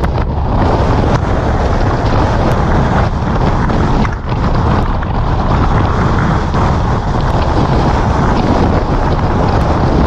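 Wind buffeting the microphone: a loud, steady rush, heaviest in the low end, with a brief lull about four seconds in.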